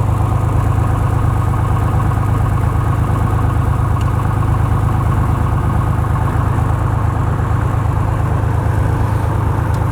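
Socata TB20 Trinidad's six-cylinder Lycoming IO-540 engine and propeller running steadily while warming up after start.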